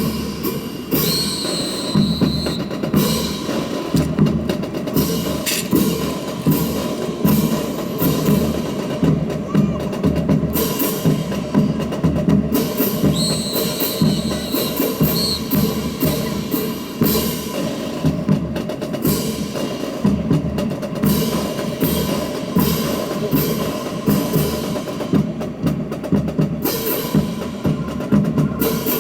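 Drill rifles of a rifle drill team being slapped and struck in unison, giving repeated sharp wooden clacks over music.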